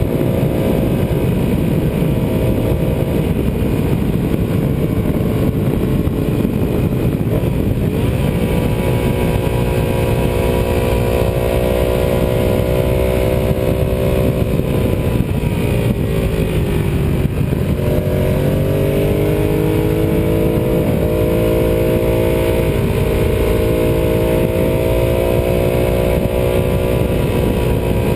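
Ducati 748R's 90-degree V-twin engine running under way at steady revs, with wind rush. About two thirds of the way through, the revs fall away and then climb back up.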